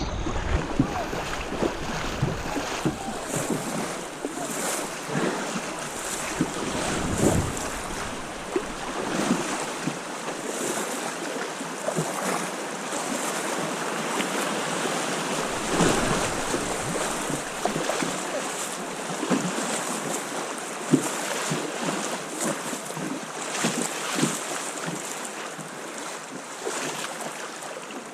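River water rushing and splashing around a sit-on-top kayak, with irregular splashes and knocks and wind on the microphone.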